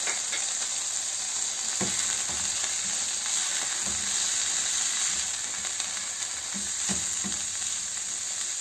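Diced chicken and onion sizzling in a hot non-stick frying pan, stirred with a silicone spatula, with a few soft knocks of the spatula against the pan about two seconds in and again near the end.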